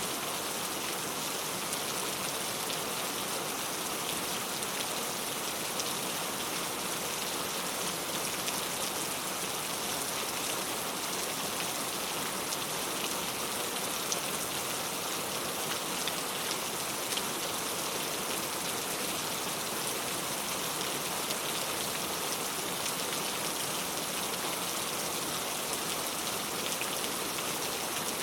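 Heavy rain falling steadily: an even hiss of rain on surfaces, with scattered individual drop ticks.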